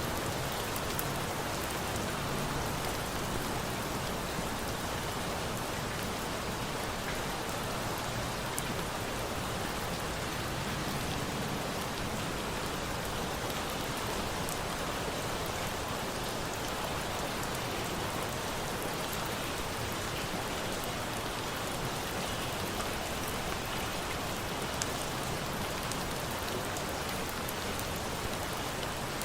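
Steady rain, with a campfire's scattered faint crackles and pops on top.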